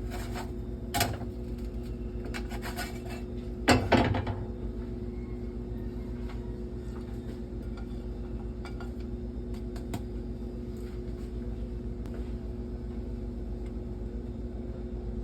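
A few knocks and clatters of cooking utensils against a pan on the stove, a sharp one about a second in and a louder cluster about four seconds in, over a steady low hum.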